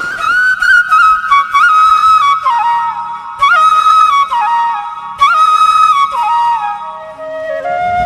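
Background music: a solo flute melody moving in small steps with quick ornamental turns, over a faint low drone.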